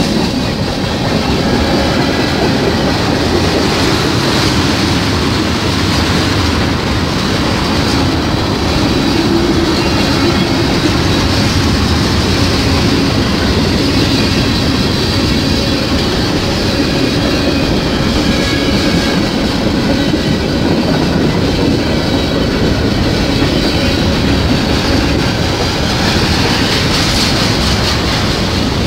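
Freight cars of a fast-moving Canadian National manifest train (tank cars, boxcars, autoracks) rolling past close by: a steady, loud rumble and clickety-clack of steel wheels over the rail, with thin high wheel squeal now and then.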